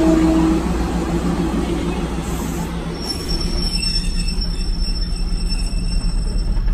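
Train running on rails with a steady low rumble; a high-pitched wheel squeal starts about three seconds in.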